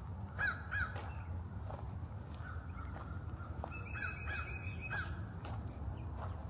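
Birds calling: short rising-and-falling calls, a pair near the start and three more about four to five seconds in, with a thin held whistle alongside the later ones, over a steady low rumble.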